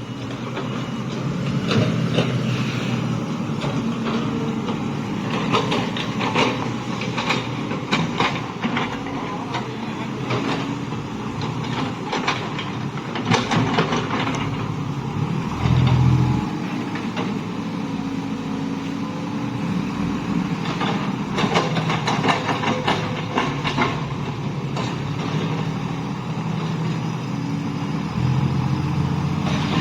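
Heavy diesel vehicle engine running steadily, with bursts of clanking and rattling and a short low boom about halfway through.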